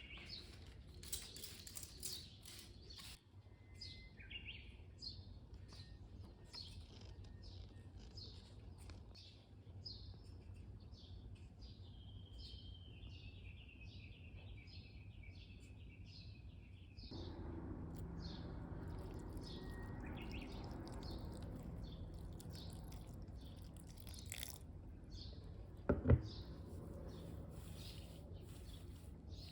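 Small songbirds chirping over and over, with one long trill that slides slowly down about halfway through. A single sharp knock comes near the end.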